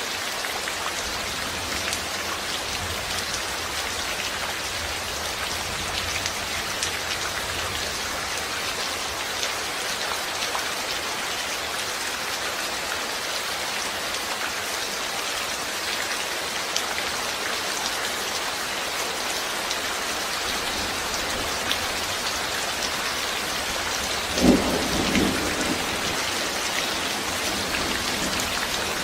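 Steady rain falling, an even hiss full of small drop ticks. Near the end a short low rumble of thunder, about a second long, rises above it.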